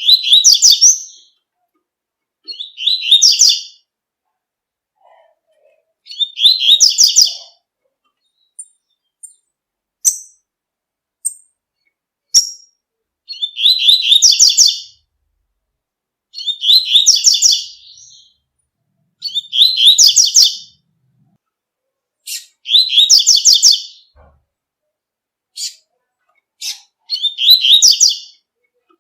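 Double-collared seedeater (coleiro, Sporophila caerulescens) singing the 'tui-tui' song: a short high-pitched phrase of about a second, repeated every two to three seconds, with a few single sharp chips in the gaps.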